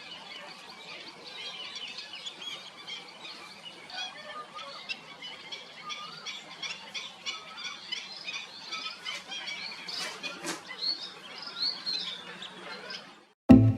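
Many birds calling together, a dense overlapping chorus of short, high squealing calls that grows louder toward the end. Loud plucked-string music cuts in suddenly just before the end.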